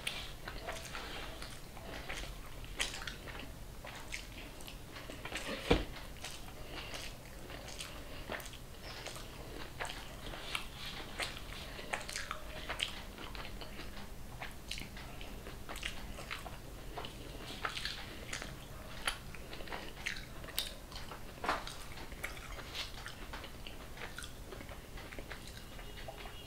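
Close-up eating sounds of a person chewing rice and curry eaten by hand: wet chewing and lip smacks with many small clicks, and one sharper knock about six seconds in.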